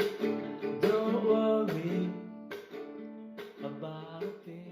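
Acoustic guitar strumming the closing chords of a song, one chord a little under every second, growing softer after about two seconds as it winds down.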